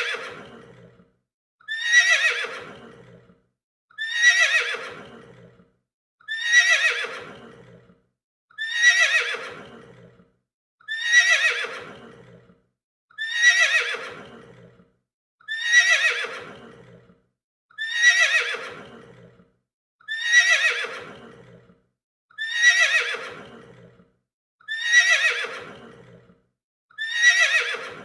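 A horse neighing: the same whinny repeated at even intervals of a little over two seconds, about a dozen times, each call sliding down in pitch as it fades.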